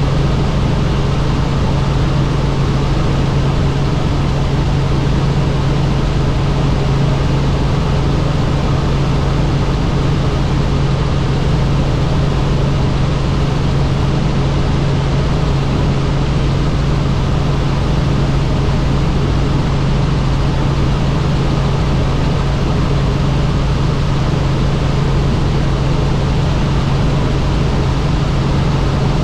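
Helicopter in steady flight: a loud, unchanging drone of engine and rotors with a strong low hum.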